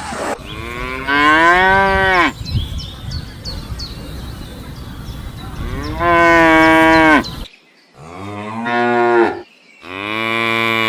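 Cattle mooing: four drawn-out moos, the first about half a second in and the second about six seconds in, then two more close together near the end.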